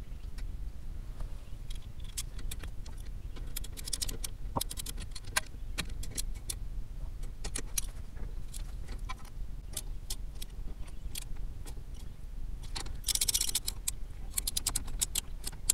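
Metal hand tools clinking and clicking against car parts in a long run of separate sharp ticks, with a short dense rattle about thirteen seconds in.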